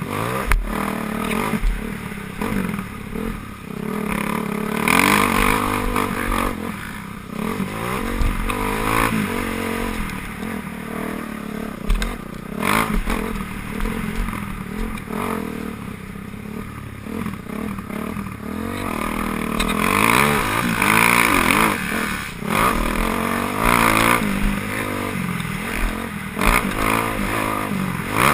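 Several motocross motorcycles racing, engines revving up and down as they pass, growing louder and fading again every few seconds.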